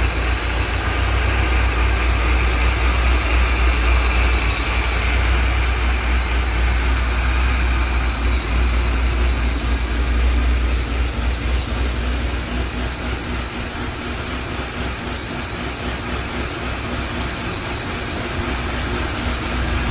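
Fully built 7-litre iron-block LSX V8 of a C6 Corvette Z06 idling steadily while still warming up from a cold start, its oil not yet up to temperature. A deep, even low rumble runs throughout with a thin steady high whine over it, and the engine gets a little quieter in the second half.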